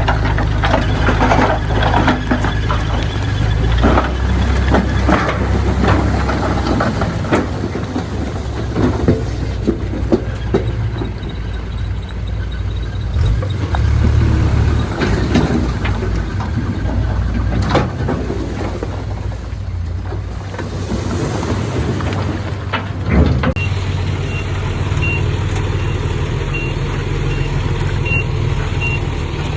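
Heavy diesel earthmoving machinery working: a steady low engine drone with frequent metallic clanks and knocks, typical of a crawler bulldozer's tracks and blade. About three-quarters of the way through the sound cuts to an engine idling under a regular reversing beeper.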